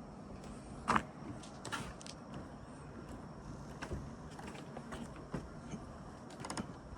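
Footsteps on a trail: irregular crunches and knocks, the loudest about a second in, over a low background rumble.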